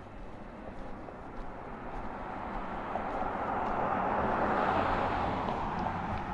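A vehicle passing by: a smooth rush of road noise that swells to a peak about two thirds of the way through, then fades.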